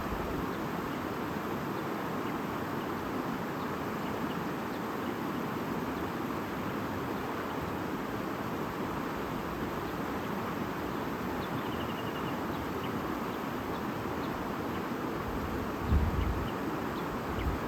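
Steady murmur of a flowing stream, with a faint short bird trill about two-thirds of the way through. Low gusts of wind rumble on the microphone near the end.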